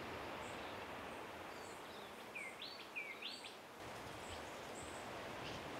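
Birds calling faintly: scattered short high chirps and, about halfway through, two quick rising whistled notes, over a steady outdoor hiss.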